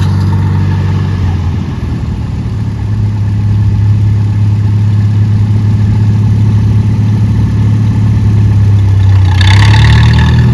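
Engine of a vintage tractor running at a low, steady pitch as it drives past, growing louder. Near the end comes a brief hissy burst, and the engine note rises slightly.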